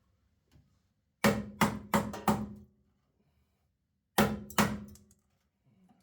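Hammer striking sheet metal: four quick blows, a pause, then two more, each with a short ring.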